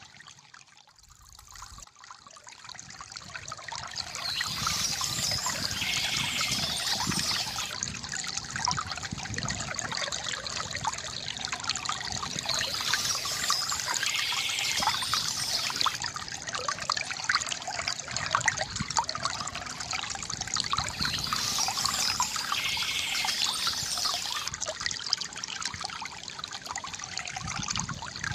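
Small stream trickling and splashing steadily over stones, fading in from near quiet over the first few seconds.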